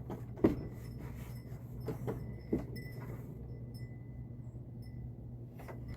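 Several short knocks, the loudest about half a second in and others around two seconds in, over a steady low hum.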